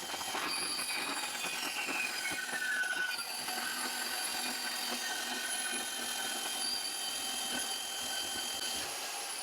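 Portable band saw running with a steady high whine as its blade cuts through metal exhaust tube for a pie cut.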